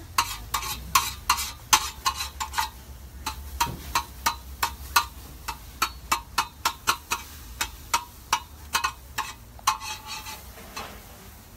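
Metal spatula scraping and tapping in a pan as food is stirred on a gas cooker: many quick, sharp scrapes at an irregular pace of a few a second, thinning out near the end.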